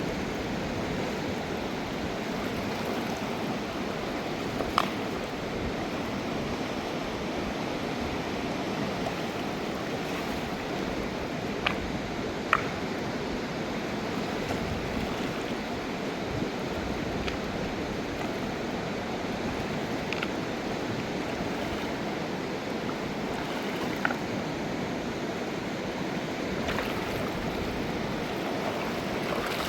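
Mountain river water rushing steadily, with a few brief sharp knocks or clicks over it.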